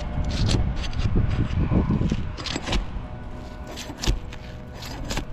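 Asphalt shingle being worked loose from its adhesive seal, cracking and tearing in a string of short sharp scrapes: the sealant holds so tight that the bottom of the shingle tears.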